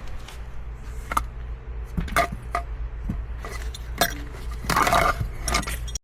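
Small hard parts and tools being handled and moved about, a scattered run of clicks, knocks and clinks, busiest about two to five seconds in. A steady low hum runs underneath.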